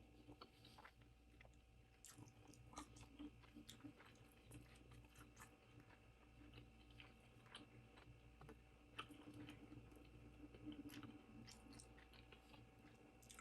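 Faint close-up chewing and mouth sounds of a person eating, with many small wet clicks and crunches scattered throughout.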